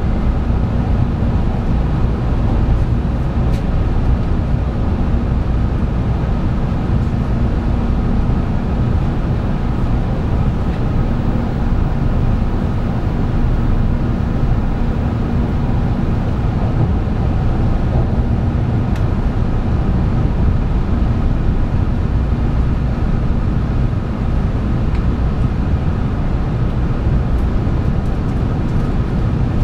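Running noise inside a 700 series 7000 'Rail Star' shinkansen car on the move: a steady low rumble of wheels on rail, with a faint steady hum over it.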